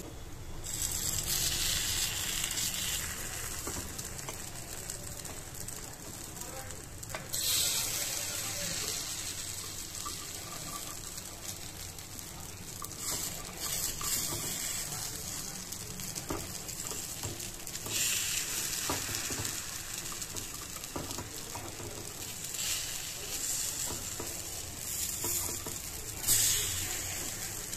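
Kuzhi paniyaram frying in oil in a cast-iron paniyaram pan, sizzling steadily. The sizzle swells louder about five times as the balls are turned in the hot oil, with a few light clicks of the spoon against the pan.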